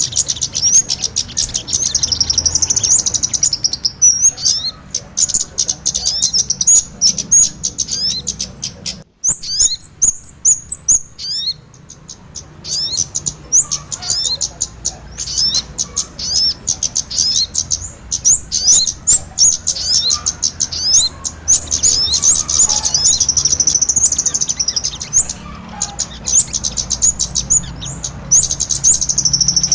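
Bird-lure recording of kemade and sogon ontong calls: dense, high-pitched chirping and twittering from small birds, with a brief break about nine seconds in.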